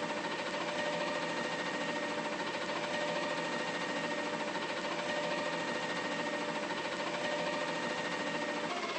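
Mack LR garbage truck's diesel engine running at a steady speed, with a steady mechanical whine over it.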